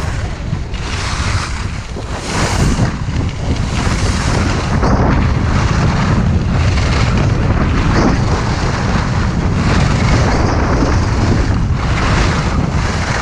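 Strong wind buffeting the microphone, a heavy steady rumble, with a hiss that swells and fades every second or so as skis carve across the snow on a downhill run.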